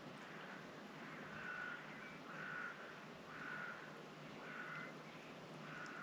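A bird calling five times, about once a second, over a steady wash of sea waves.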